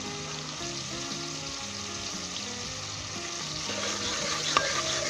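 Onion, ginger and garlic sizzling steadily as they fry in hot vegetable ghee in a pot, with one sharp clink of a utensil against the pot near the end.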